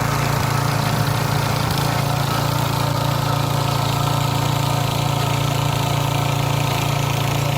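Single-cylinder 170 petrol engine of a walk-behind tiller running steadily at a constant speed while it works the soil.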